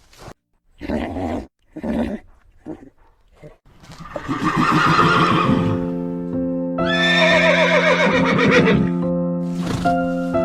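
A horse whinnying: several short sounds in the first seconds, then two long, shaky neighs starting about four and about seven seconds in. Background music with held chords comes in under the second half.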